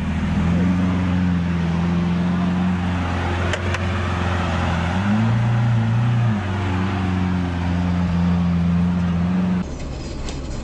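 Car engine running steadily at a constant drone. Its pitch rises briefly about five seconds in and settles back, then the sound cuts off abruptly near the end to a quieter recording.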